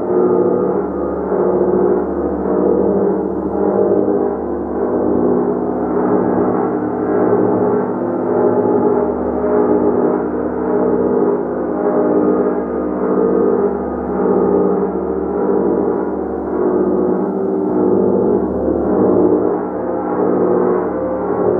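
Large gong played continuously, a dense wash of many overlapping ringing tones that swells and ebbs about once a second as it is struck again and again.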